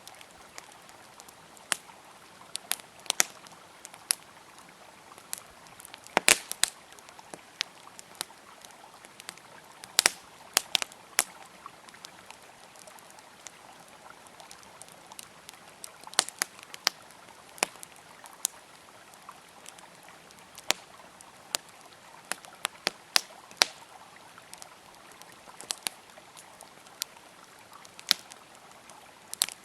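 Wood fire crackling, with irregular sharp pops and snaps, some in quick clusters, over the steady rush of flowing river water.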